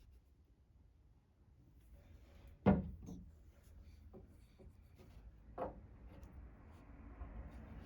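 Old wooden drawer being handled: a sharp wooden knock about a third of the way in, a few light taps, and a second, softer knock past halfway, with faint rubbing building up near the end.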